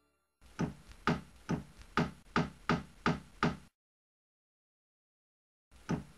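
A series of about eight evenly spaced knocks, a little over two a second. Then two seconds of dead silence, and one more knock near the end.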